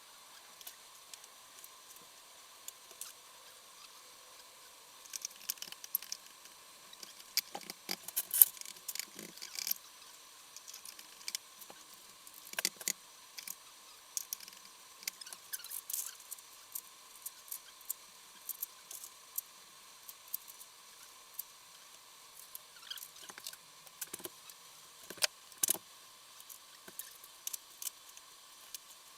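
Irregular clicks, taps and light clinks of hand tools and small metal engine parts being handled, with the sharpest knocks about eight seconds in and near the end.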